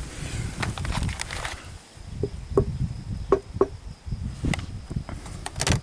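Wood being knocked and handled: a run of short, sharp knocks and clicks, some with a brief ring, over a low uneven rumble.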